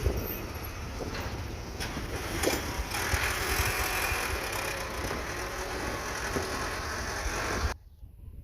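Dump truck running on a rough haul road: a steady low engine rumble with noise and a few sharp knocks over it. The sound cuts off abruptly shortly before the end.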